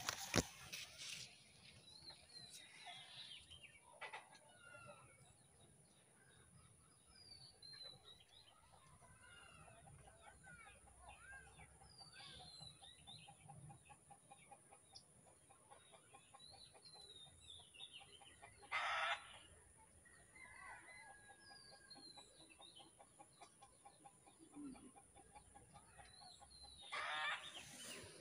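Faint birdsong: scattered short chirps and whistled calls, with a faint pulsing trill in the middle and two louder calls, one about two-thirds of the way through and one near the end.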